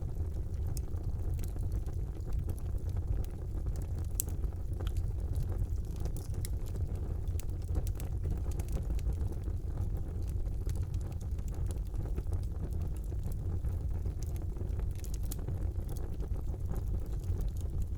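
Fire burning in a fireplace: a steady low rumble with scattered sharp crackles and pops throughout, one louder pop about four seconds in.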